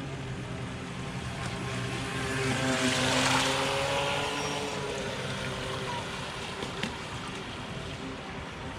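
Electric motor of an RC speed boat whining steadily as the boat runs across water, with a rushing hiss. It grows louder and its pitch drops as the boat passes close about three seconds in, then it fades back. The motor is running easily and is not struggling.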